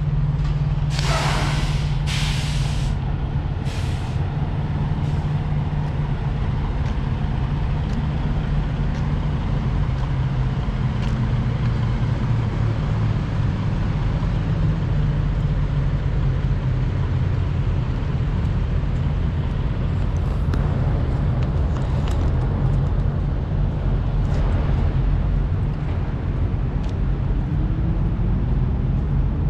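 Semi-truck diesel engines idling steadily, with three or four sharp air hisses in the first few seconds, typical of air brakes being released. Near the end an engine's pitch rises as a truck pulls off.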